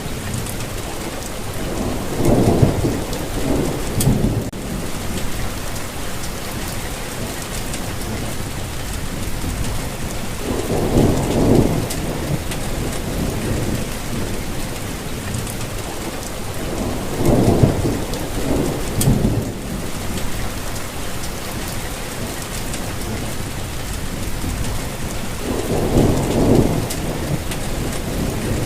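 Steady rain falling, with a low rumble swelling up four times, about every eight seconds.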